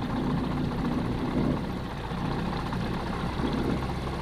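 Light airplane's piston engine running at low power, a steady low drone heard from inside the cabin, on final approach to landing.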